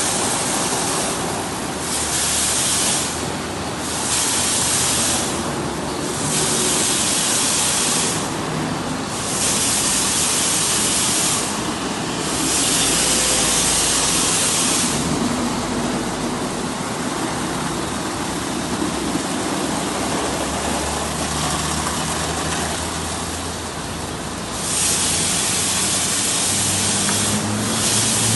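Electric blow dryer running continuously as a dog is dried, a steady rush of air over a low motor hum. The hiss swells and dips in strength every second or two.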